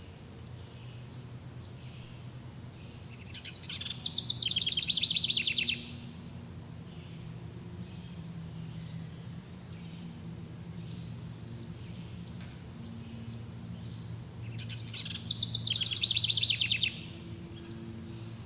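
Birdsong: a songbird gives two loud, rapid trilled phrases of about two seconds each, around four seconds in and again about fifteen seconds in. Fainter repeated chirps and a steady low hum run underneath.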